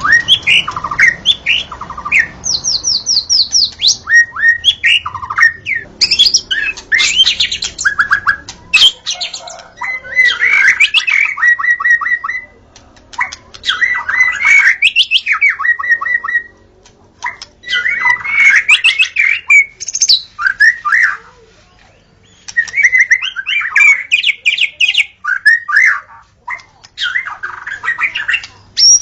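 White-rumped shama (murai batu) singing. It delivers loud, varied phrases of clear whistles and rapid trills, separated by short pauses.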